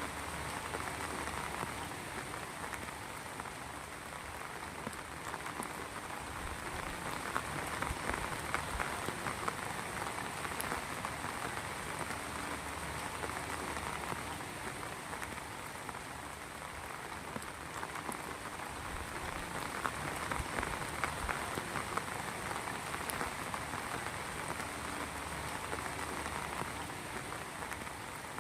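Rain falling steadily: a dense patter of drops that swells a little twice and eases back.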